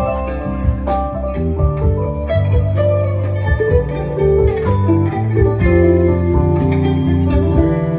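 A band playing an instrumental passage: guitar picking notes over a bass line, with no singing.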